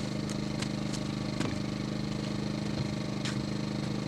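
A small engine running steadily at a constant speed, with a few light clicks or knocks over it.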